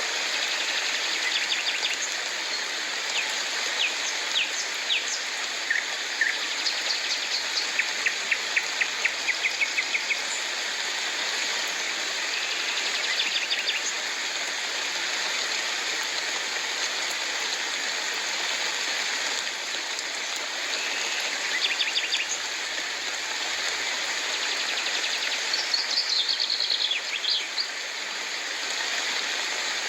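Steady rain falling, with birds calling over it: scattered short chirps, a quick run of repeated notes about a quarter of the way in, and more calls in the middle and near the end.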